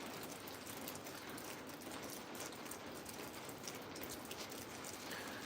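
Steady rain falling, with many scattered drops ticking.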